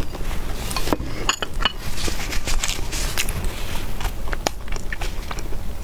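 Close-up eating noises with utensils clinking against a bowl of noodle soup, a quick cluster of clinks about a second in.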